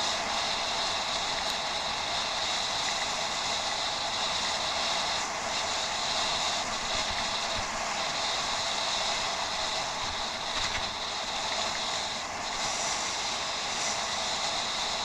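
Bicycle riding noise: a steady rush with a high-pitched buzz that breaks off briefly several times.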